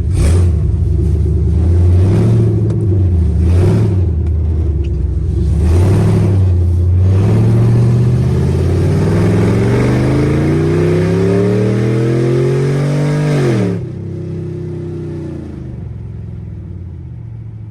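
Loud V8 exhaust: a few short throttle blips, then a hard pull with the pitch climbing steadily for about six seconds. Near the end the throttle closes suddenly and the revs fall away.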